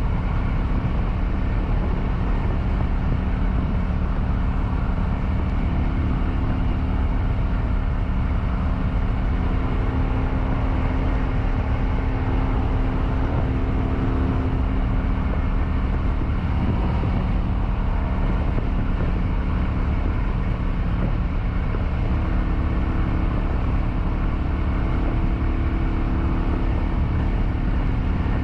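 Kawasaki Vulcan 900 V-twin engine running at a steady cruising speed, under a constant rush of wind and road noise.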